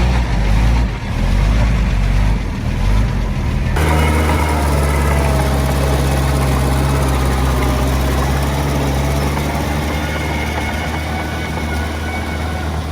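Heavy-equipment diesel engine running. About four seconds in, the sound changes abruptly to a steady low hum, like an engine at idle.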